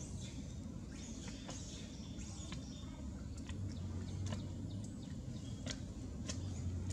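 Short, scattered bird chirps, a dozen or so over several seconds, over a steady low rumble.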